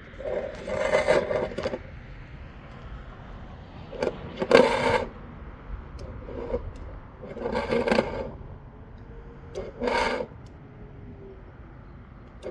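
Scraping and rattling in a rooftop dryer vent duct during cleaning, in four separate bursts a few seconds apart.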